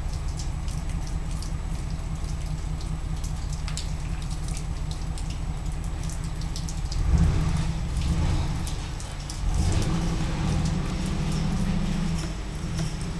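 Steady low hum of an idling car heard from inside the cabin, with faint scattered ticks. The rumble swells briefly about seven seconds in and again for a couple of seconds near the end.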